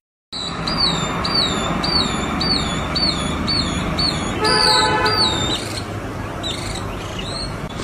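A songbird repeating a short, high, downslurred note about twice a second, over a steady rushing background. A brief buzzy, horn-like tone sounds about four and a half seconds in.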